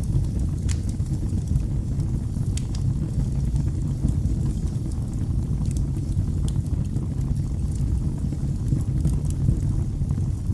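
Wood fire burning in a fireplace: a steady low rumble of flames with scattered sharp crackles and pops, one stronger snap just under a second in.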